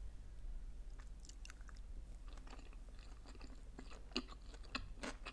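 Close-miked chewing of sushi rolls: soft mouth clicks and smacks scattered through, with a couple of sharper ones near the end, over a low steady hum.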